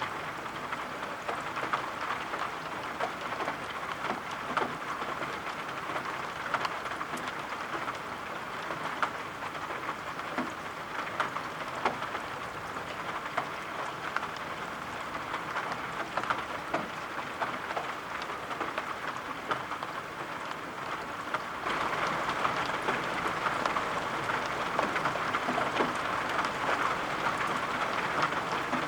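Steady rain with many small drop taps against glass. It grows a little louder about three-quarters of the way through.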